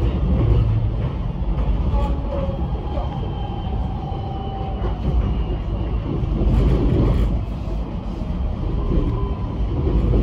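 Metro X'Trapolis electric train heard from inside the carriage, running and slowing into a station: a steady low rumble of wheels on rail, with a faint whine in the first few seconds.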